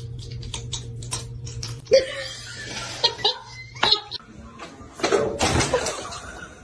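A person laughing in short bursts, after a run of short clicks.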